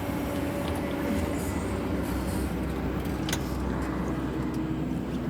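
Sany excavator's diesel engine and hydraulics running steadily, a low hum with a faint whine, and a single sharp click about three seconds in.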